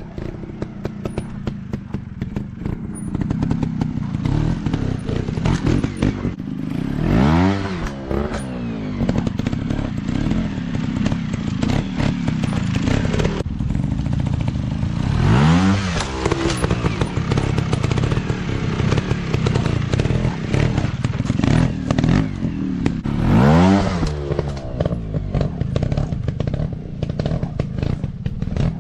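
Dirt bike engines running, with three louder moments about eight seconds apart where an engine's pitch rises and then falls as a bike revs and goes by.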